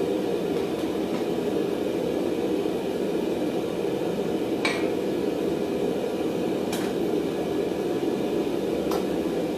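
Three sharp metallic hammer strikes on steel, about two seconds apart, over a steady low roar.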